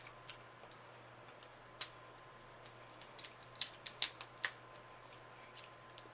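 Eating sounds: a scattered run of soft clicks and smacks of chewing and handling seafood-boil food, clustered in the middle, over a faint steady hum.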